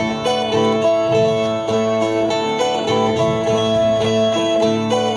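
Brazilian ten-string viola plucked in an instrumental interlude of a cantoria de repente, a short melodic figure repeated over and over.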